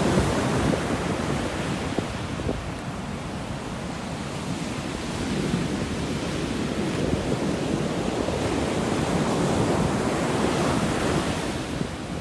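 Sea waves: a continuous rushing surf that eases off a couple of seconds in, swells again later, and falls back near the end.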